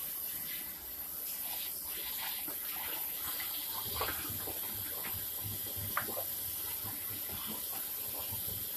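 Kitchen faucet running steadily into a sink, with a few light clinks about four and six seconds in.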